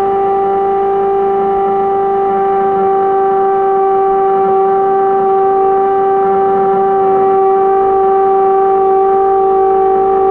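A single loud, steady tone with overtones, held at one pitch without wavering, like a sustained horn or siren note.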